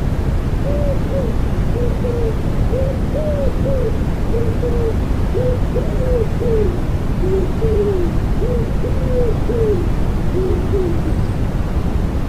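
Common wood pigeon cooing in repeated phrases of soft, arching notes over a steady bed of low, rushing white noise.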